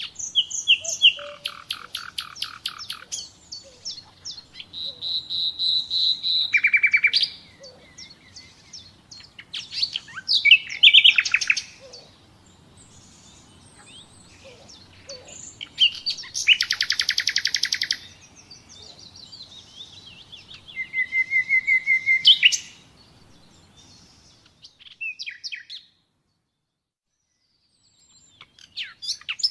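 Common nightingale singing: a run of separate phrases, some rapid trains of repeated notes, others long held whistles that swell louder, with short pauses between them. The song stops for a few seconds near the end, then one short phrase follows.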